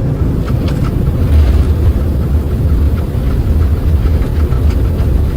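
Loud, steady low rumble in an Airbus A330 cockpit during the landing rollout: the engines in reverse thrust and the wheels rolling on the runway as the jet decelerates.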